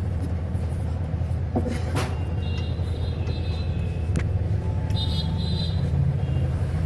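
A car engine running steadily at idle with a low rumble, with a few light metallic clicks over it.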